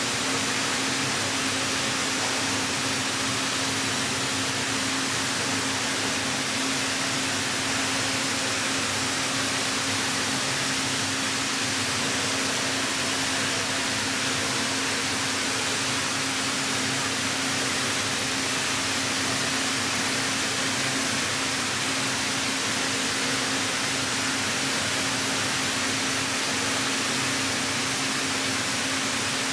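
Hydraulic plate bending roll running under power: a steady, even hiss with a constant low hum that does not change throughout.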